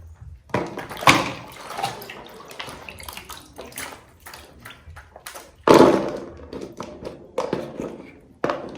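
Water splashing along with irregular clatters and knocks of things being handled, one sharper knock a little past halfway.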